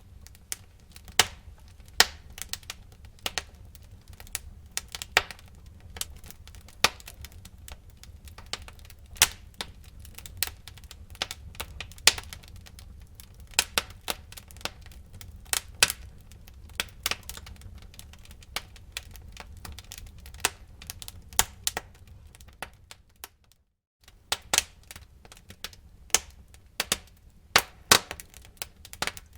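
Wood fire in a fireplace crackling, with irregular sharp pops and snaps over a steady low rumble of the flames. The sound cuts out briefly about three quarters of the way through, then the crackling resumes.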